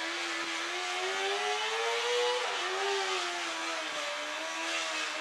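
A motor running with a steady hum whose pitch slowly rises, drops suddenly about two and a half seconds in, then settles and wavers.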